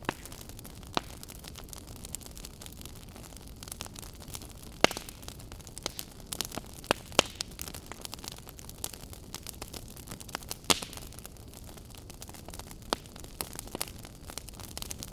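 Wood fire burning with a steady hiss and irregular crackles and pops, a few of them sharp loud snaps.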